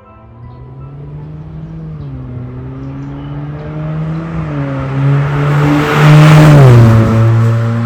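Honda Fit's 1.5-litre four-cylinder engine running through an MS-R valved cat-back exhaust, the exhaust note getting louder and shifting pitch a few times. It is loudest about six seconds in, with a rush of hiss, then eases slightly.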